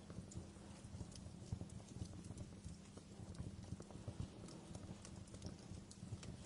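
Wood fire crackling in a fireplace: a dense run of small irregular pops and ticks over a low, soft rumble of burning.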